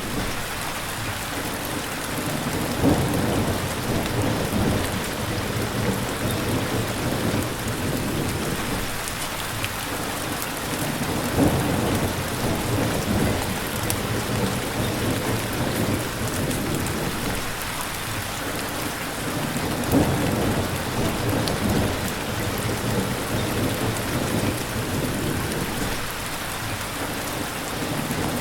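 Steady heavy rain pouring down, with thunder rumbling through it and louder thunder claps about every eight seconds.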